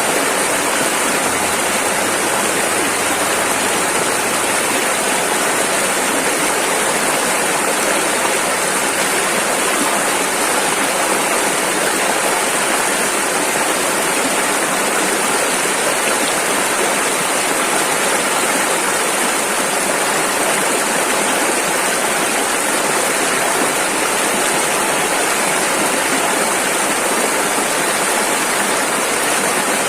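Rushing river water, a steady full rush of flowing rapids with no breaks.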